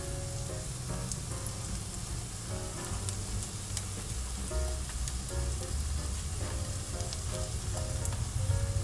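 Okonomiyaki batter and shredded cabbage sizzling in oil in a non-stick frying pan, with scattered small pops of the oil. Soft background music plays over it.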